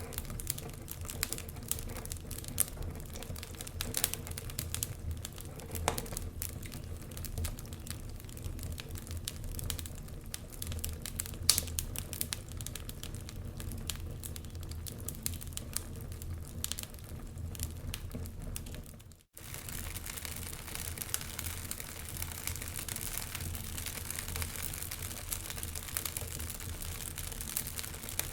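Wood fire of burning logs crackling, with irregular sharp pops over a steady low rumble. The sound cuts out for a moment about two-thirds through, then resumes.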